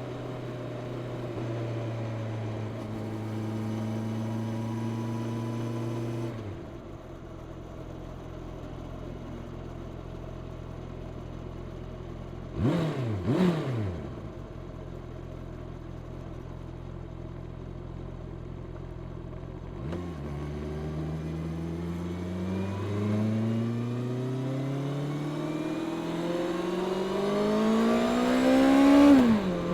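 Honda CB650R's inline-four engine with stock exhaust, heard while riding. It runs steadily, then eases off about six seconds in and gives two quick throttle blips near the middle. It then accelerates with the pitch climbing steadily until a gear change drops it sharply near the end.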